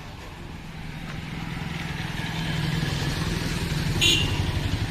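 A motor running with a low, pulsing note that grows louder over the first few seconds. A short, sharp clink comes about four seconds in.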